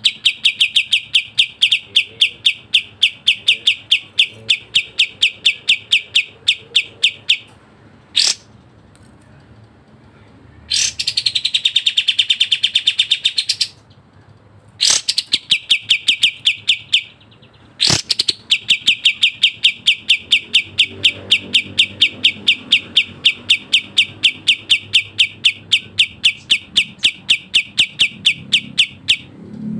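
Kapas tembak bird singing long, fast runs of sharp repeated chirps, about eight a second, broken by a few short pauses; a little before the middle comes a brief denser trill of even quicker notes.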